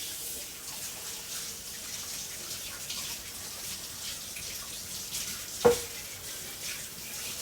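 Steady running water, like a kitchen tap, with one sharp knock about two thirds of the way through.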